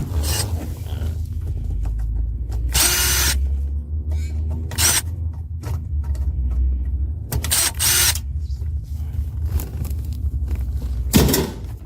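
Power drill running in several short bursts, a fraction of a second each, over a steady low hum.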